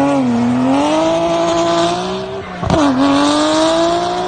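A pet's long drawn-out howl, its pitch dipping and then slowly rising; it breaks off about two and a half seconds in and starts again low, sliding upward.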